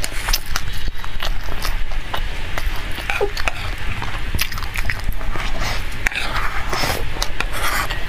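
Close-up chewing and crunching of a mouthful of dry black sesame seeds: a dense run of small crisp clicks. A metal spoon scrapes loose seeds together in a plastic bowl, over a steady low hum.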